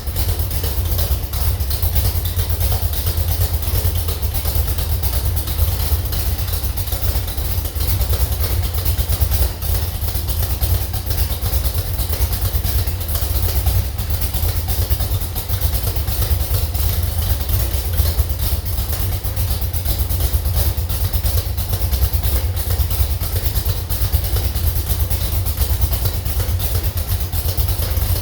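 Slover 305 engine running steadily on a test stand at an even, idle-like speed, with a fast, even firing beat.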